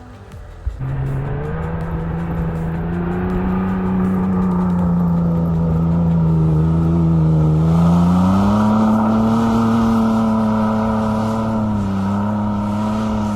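4x4's engine revving hard and held at high revs as it climbs through deep snow. The pitch rises further about 8 seconds in, and the sound cuts off abruptly.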